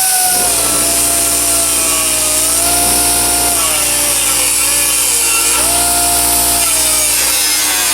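Power tool cutting sheet steel for door latch reinforcement plates: a loud, steady hiss with a motor whine whose pitch sags and comes back up a few times as it bears into the metal.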